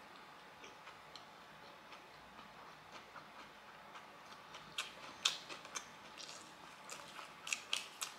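Faint close-up chewing of a lettuce-wrapped fire noodle mouthful: soft, wet mouth clicks, becoming sharper and more frequent about five seconds in.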